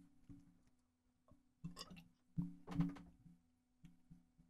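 Faint wet chewing and mouth noises from a man eating cold canned beef stew, with a few small clicks and two brief louder mouth sounds around the middle, over a low steady hum.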